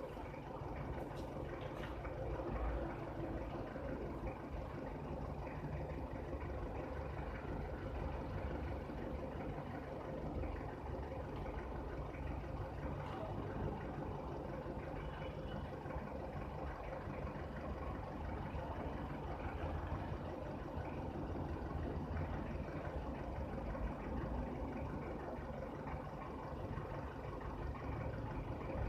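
Steady low rumble of an engine running at an even speed.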